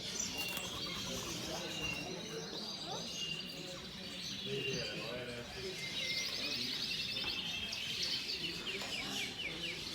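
Many small caged birds chirping and twittering at once, with a fast trill of rapid notes about eight seconds in, over a low murmur of people talking.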